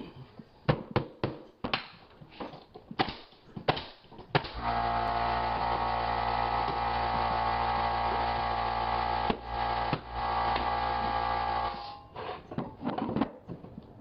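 A string of sharp knocks and taps from hardwood boards being worked into place. About four and a half seconds in, a power tool's electric motor starts and runs at a steady pitch for about seven seconds, dipping briefly, then stops.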